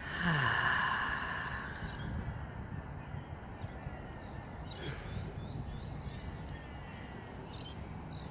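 A crow cawing: one long, harsh caw at the start, then fainter short calls about halfway through and again near the end.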